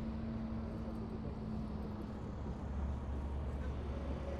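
Heavy military vehicles' engines running as they pass along the street, a steady low rumble. A steady hum fades out a little past halfway and a deeper drone comes in.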